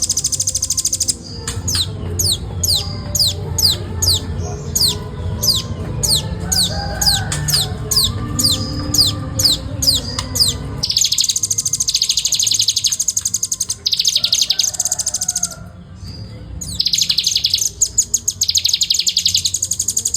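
Nuthatch song: a fast, tight, high trill, then a quick run of high notes each sliding down in pitch, about three a second, then two more long rapid trills. A low hum runs under the first half.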